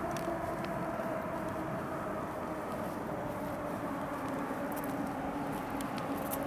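Steady engine and traffic noise: an even rumble with two held hum tones that sink slightly in pitch.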